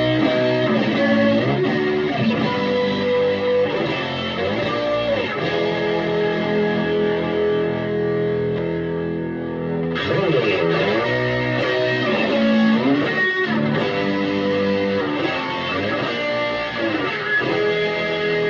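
Electric guitar on its front (neck) pickup played through a Vintage Sound Amp: sustained chords with bends and slides, freshly struck about ten seconds in.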